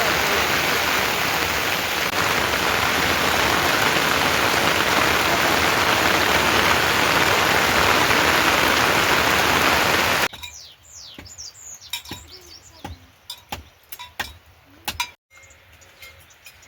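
Heavy rain falling in a steady, loud hiss. About ten seconds in it cuts off suddenly, leaving a quiet background with scattered light ticks and a few short chirps.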